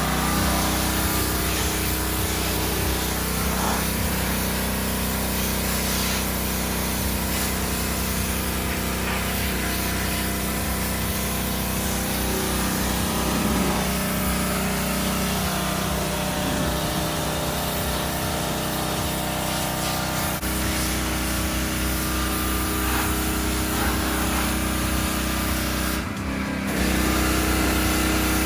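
Gas-engine pressure washer running steadily under load, a small engine's drone under a spray hiss, with a brief dip near the end.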